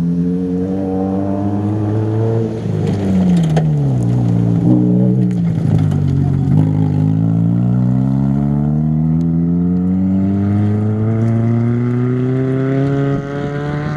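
Rally car engine at full throttle on a gravel stage: the pitch climbs, drops away from about three seconds in, then climbs steadily again for most of the rest as the car accelerates. A few sharp ticks come around four to five seconds in.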